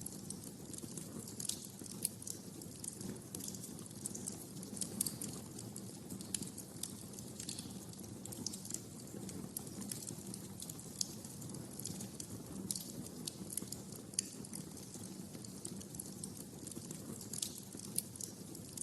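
Wood fire in a fireplace crackling, with irregular sharp pops and snaps several times a second over the low, steady rumble of the burning logs.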